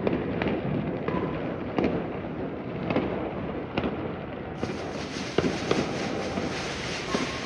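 New Year fireworks and firecrackers going off: sharp bangs at irregular intervals, roughly one a second, over a constant crackling din.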